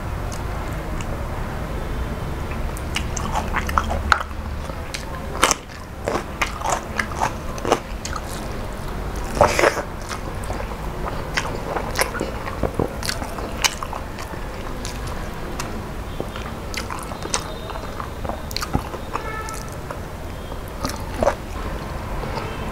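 Close-up eating sounds: a person chewing and biting into food with his mouth, with a scatter of short, sharp crunches, busiest in the first half.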